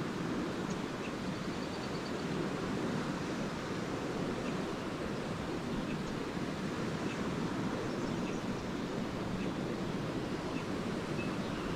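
Small lake waves washing steadily onto a sandy shore, with faint, short high chirps of swallows scattered through it.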